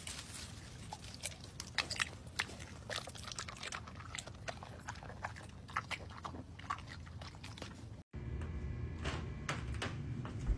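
A dog biting and chewing tomatoes off the plant: a quick, irregular run of small crunches and clicks.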